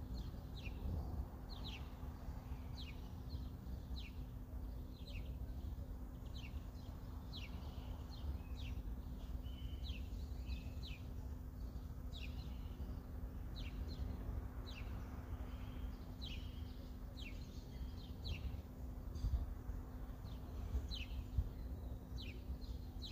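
Small birds chirping over and over: short falling notes, about two a second, over a steady low outdoor rumble.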